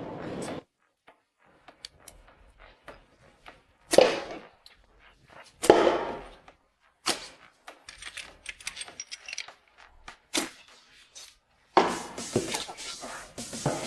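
Metal tools and engine parts being handled, making scattered clicks and clanks. A few louder clanks ring briefly about four, six and ten seconds in, and there is a busier run of clatter near the end.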